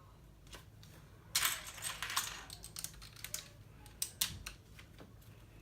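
Loose plastic LEGO pieces clattering and clicking: a quick burst of rummaging about a second and a half in, then a few single clicks.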